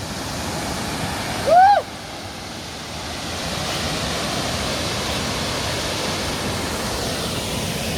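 Ettipothala waterfall pouring, a steady rush of falling water. About one and a half seconds in, a short call that rises and falls in pitch briefly rises above the rush.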